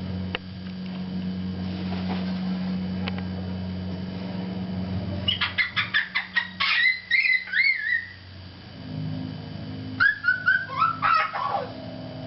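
A bird calling: a quick run of clicks about five seconds in, then a few wavering, whistle-like calls, and more calls near the end, over a steady low hum.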